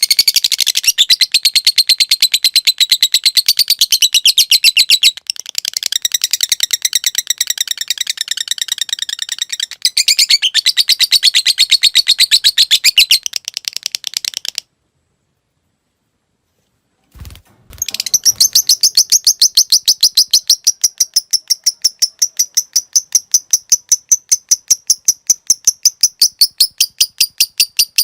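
Lovebird giving its long 'ngekek' chatter: a fast, evenly spaced run of shrill high chirps. It stops about fifteen seconds in, a short sound comes a couple of seconds later, and then a new long run starts.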